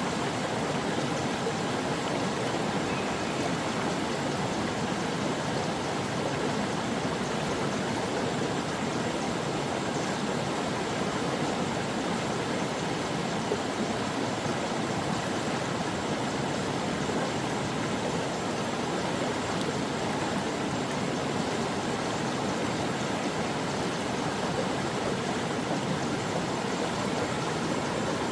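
A flowing stream, its water running over rocks in a steady, even rush.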